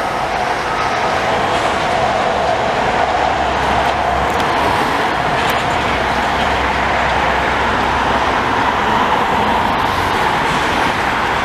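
A commuter train of bilevel coaches rolling past with a steady noise of wheels on rail, mixed with passing highway traffic.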